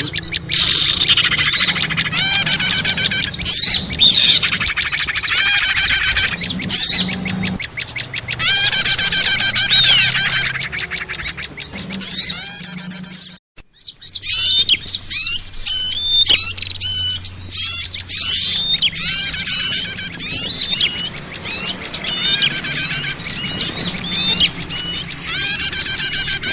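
Recorded lure call of small songbirds: many rapid, overlapping chirps and trills in a noisy, agitated chatter. It breaks off for an instant about halfway through, then resumes.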